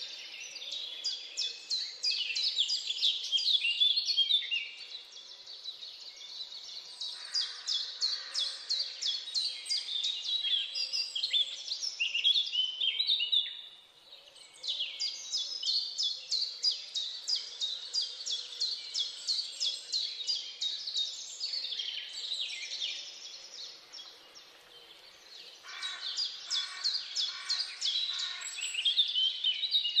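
Several birds singing and chirping together in rapid, high trilled phrases that overlap, with a short lull about halfway through.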